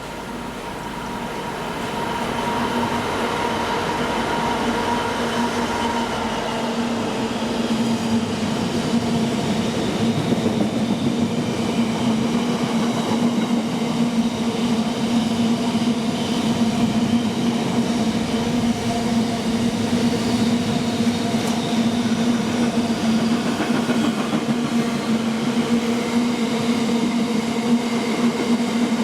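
A train passing close by: the sound swells over the first couple of seconds and then runs steadily, a constant-pitch hum over a continuous rattle of wheels on the rails.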